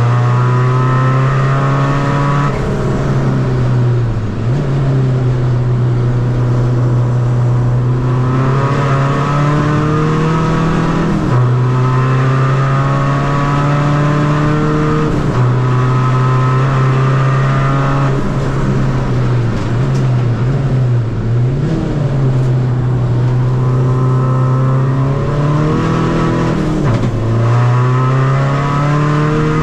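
Tuned Seat Ibiza FR's turbocharged 2.0 common-rail diesel engine pulling hard under full throttle, revs climbing steadily and dropping sharply at each quick upshift, four or five times. Around the middle the revs fall and rise in a few short dips as the car slows for a corner, then climb again.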